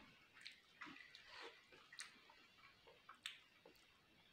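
Faint wet eating sounds of rice and chicken curry eaten by hand: scattered soft clicks and smacks of chewing, with sharper clicks about two seconds in and again a little after three.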